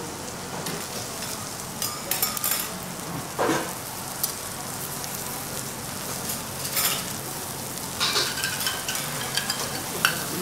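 Floured slices of duck foie gras sizzling in their rendered fat on a teppanyaki steel griddle: a steady hiss, with a few sharp crackles and clicks over it.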